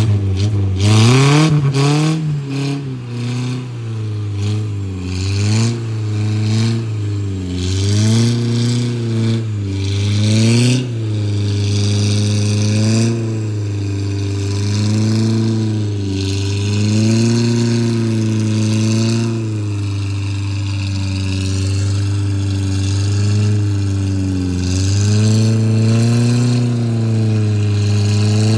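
Off-road 4x4 vehicle's engine revving up and down over and over, its pitch rising and falling every second or two as the throttle is worked. A few sharp knocks come in the first few seconds.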